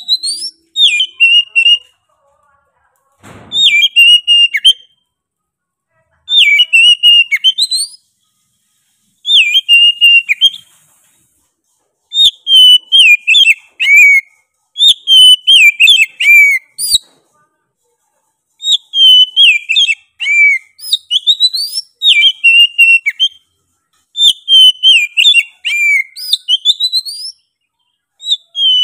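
Oriental magpie-robin (kacer) in full, insistent song: loud whistled phrases of a second or two each, sliding up and down in pitch, repeated with short pauses between.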